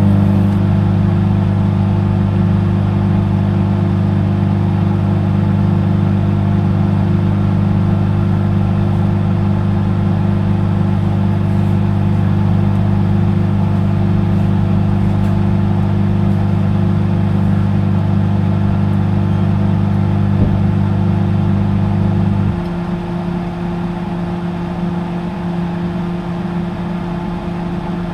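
Microwave oven running with a loud, steady deep hum. About 22 seconds in, the deepest part of the hum drops away and a lighter whir carries on.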